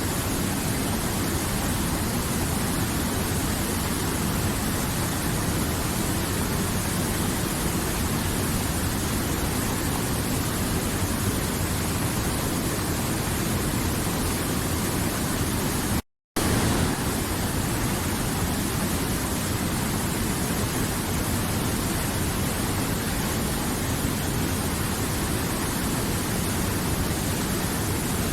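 River water flowing, a steady, dense rush with no change in level. The sound drops out completely for a split second about sixteen seconds in, then resumes unchanged.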